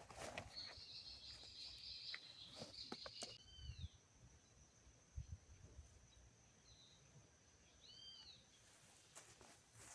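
Faint outdoor birdsong: a buzzy high trill for about three seconds, then a few short, arched chirps spaced several seconds apart. A few light clicks sound in the first few seconds.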